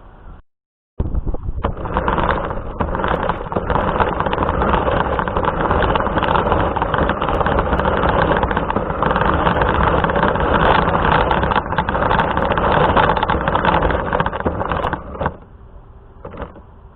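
RC car driving, its motor and tyre noise loud and steady from just after a brief dropout about a second in until it stops about 15 seconds in.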